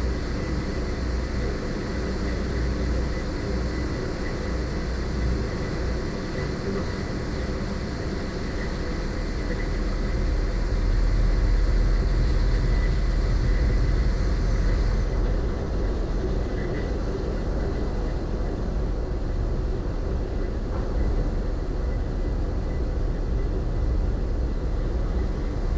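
A car ferry's diesel engines running under way: a steady low rumble with a hiss over it, swelling a little about ten seconds in and easing again after about fifteen seconds.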